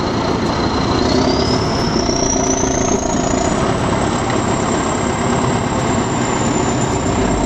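Heavy machinery engine running continuously, with a thin high whine that rises in pitch about a second in and then holds steady.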